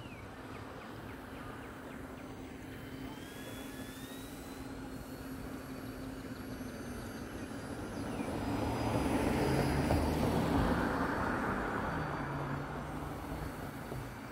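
Electric motor and propeller of an E-flite Eratix flat-foam RC airplane in flight: a thin whine that rises in pitch, then swells louder for a few seconds past the middle and eases off again.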